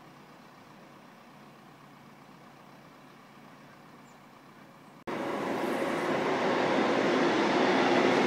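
Freight train hauled by an electric locomotive passing close by: loud rolling noise of steel wheels on the rails that sets in suddenly about five seconds in and grows louder. Before that there is only a faint steady hum.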